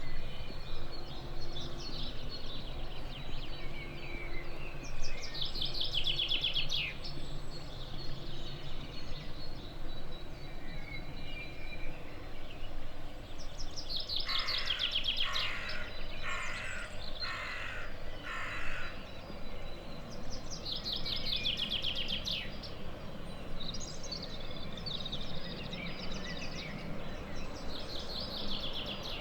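Songbirds singing repeated trilled phrases, with about five harsh calls in a row about halfway through, over a steady outdoor background haze. A low steady hum sounds through the first third.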